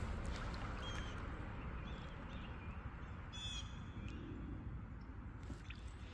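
A bird calling once, briefly, about three and a half seconds in, with a few faint short chirps earlier, over a low steady rumble.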